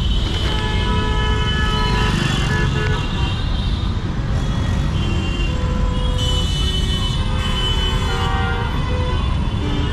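Street traffic: a steady rumble of engines, with vehicle horns honking several times over it, notably in the first few seconds and again about six seconds in.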